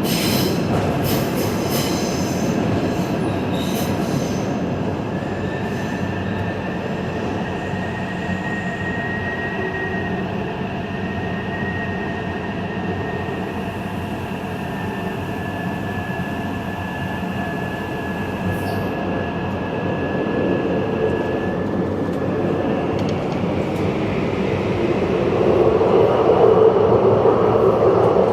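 Taipei Metro Zhonghe–Xinlu line subway train running: a steady rumble of steel wheels on rail, with a few clicks in the first seconds and a thin, high wheel squeal drifting through the middle. The rumble grows louder near the end.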